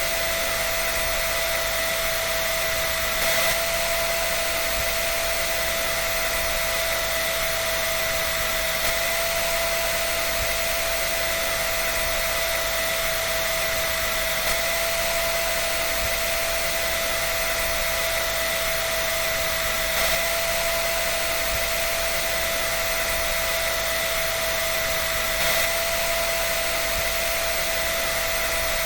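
Hair dryer running steadily: an even airy rush of blown air over a constant motor whine, with a few slight momentary swells in level.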